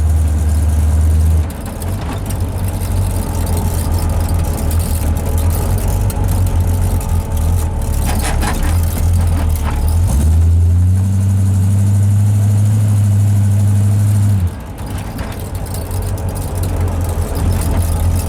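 Car engine running. Its pitch rises about ten seconds in, holds for a few seconds, then drops back.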